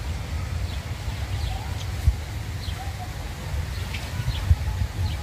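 Small birds chirping, with short, falling high chirps repeating every second or so, over a steady low rumble. Two brief thumps stand out, about two seconds and four and a half seconds in.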